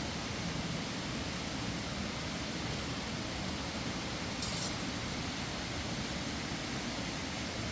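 Steady rushing noise with one brief high clink a little past halfway.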